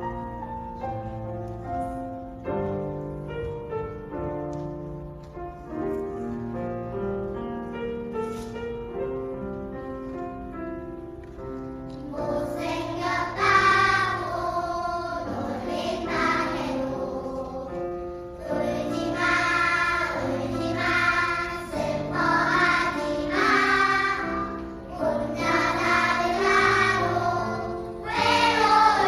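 Choir performing: an instrumental accompaniment plays an introduction of held notes, then the choir's voices come in about twelve seconds in and the singing grows louder.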